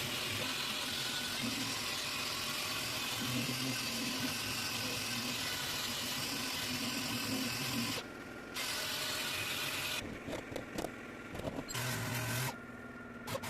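Steady mechanical running noise with a low hum, broken by several abrupt drops and a few clicks in the last few seconds.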